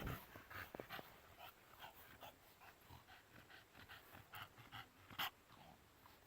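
A bully dog panting, faint and quick, the breathing of a dog hot and tired from playing in the heat. A brief sharper tick about five seconds in.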